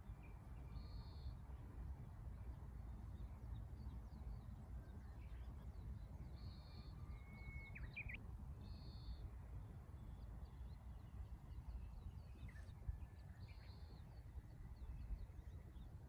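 Birds calling: one bird repeats a short high call four times, among a few other faint chirps, over a steady low rumble.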